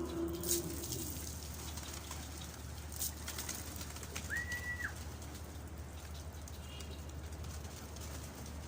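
Domestic pigeons cooing, with the low coo dying away about a second in. There are a few sharp clicks, and a short high note near the middle over a steady low hum.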